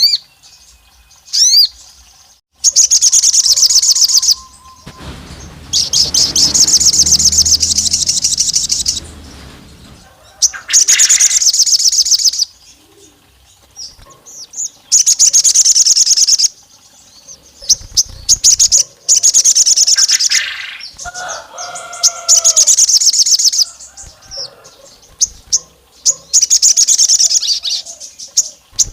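Sogon songbird calling in loud bursts of very rapid, high-pitched trilled chirps, each burst lasting about one and a half to two seconds, repeated several times with short pauses between. This is the sogon's lure call, said to sound like a female calling a male.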